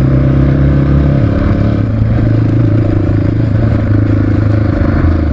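Honda XR650R's single-cylinder four-stroke engine running under way, its note dropping a little over a second in and then holding steady; an evil-sounding engine.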